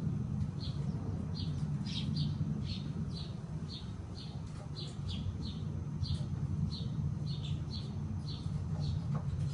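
A small bird chirping, short high chirps repeated steadily two to three times a second, over a steady low rumble.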